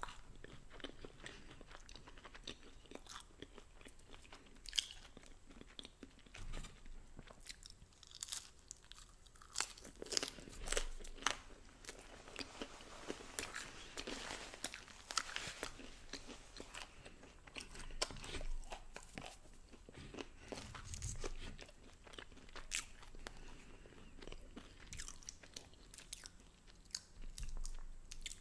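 Close-miked eating of Domino's thin-crust pizza: bites and crisp crunching of the crust with wet chewing, in many short irregular crackles.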